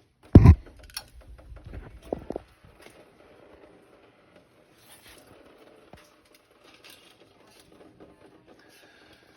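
Handling noise from an engine teardown. A heavy metal knock about half a second in is followed by a couple of seconds of rattling, with another sharp knock. Light scattered clicks and scrapes follow.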